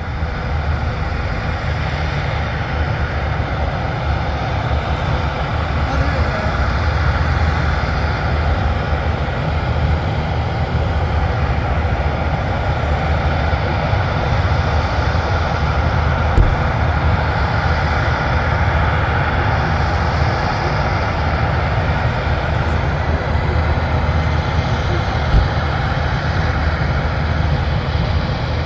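Engines of Marine Corps V-22 Osprey tiltrotors running on the ramp: a loud, steady rushing noise over a low rumble, with a faint whine above it.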